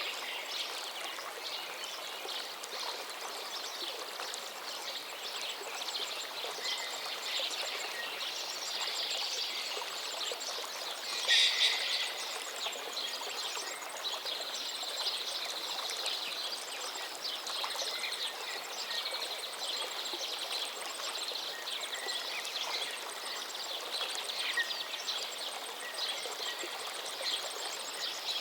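River water flowing steadily, with birds chirping and singing throughout. A short, louder sound a little after eleven seconds stands out above the rest.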